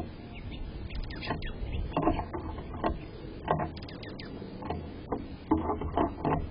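Small birds at a garden feeding spot: irregular taps and knocks close to the microphone, with short, thin, high chirps scattered through. A steady low rumble runs underneath.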